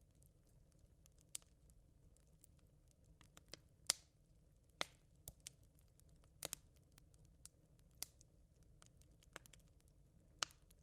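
Smouldering campfire embers crackling: irregular small ticks and pops, with a few sharper snaps, over a faint low rumble.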